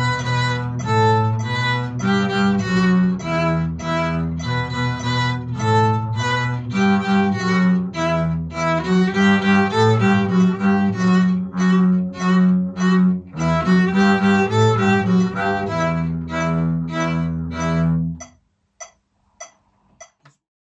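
Violin and double bass playing a simple tune together in a steady beat, stopping about two seconds before the end.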